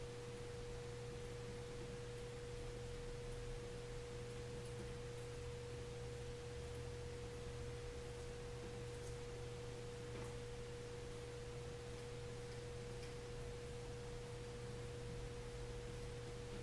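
A faint, steady single-pitch tone, a held note in the middle register, with a low hum beneath it.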